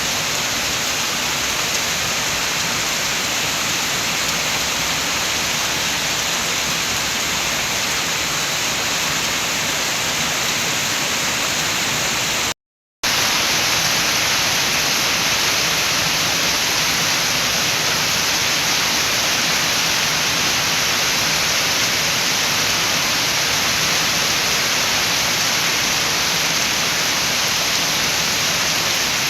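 Steady rain with wind, a dense even hiss. About thirteen seconds in it cuts out completely for a split second, then comes back slightly louder.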